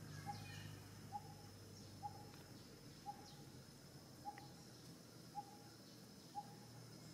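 A bird repeating one short, low note about once a second, with a thin, steady high tone and a few faint chirps behind it.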